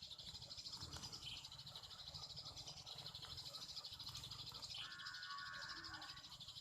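Birds chirping in a continuous high, rapid chatter, with a short lower, steadier call about five seconds in.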